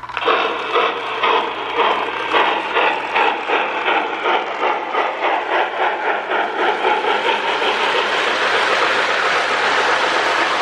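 Lionel RailSounds tender's steam chuffing as the 2055 Hudson model locomotive pulls away. The chuffs quicken with speed until they blur into a steady rush about eight seconds in, over a low steady hum.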